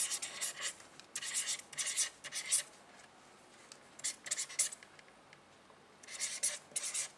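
Pen or marker writing, short scratchy strokes in quick clusters with pauses: a word being written out. A burst opens, another comes about a second in, and two more follow later, with quiet stretches in between.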